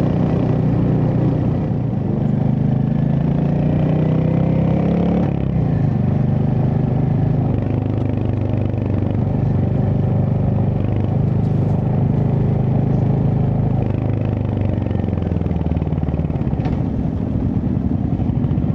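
Royal Enfield Hunter 350's single-cylinder engine running under way. The revs climb and then drop sharply about five seconds in, as at a gear change, then hold fairly steady.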